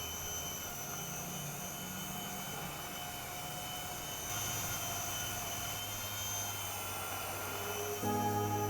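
Mini RC electric helicopter in flight: its small electric motor and rotor give a steady whine and whir, rising slightly in level about halfway through. Music comes back in near the end.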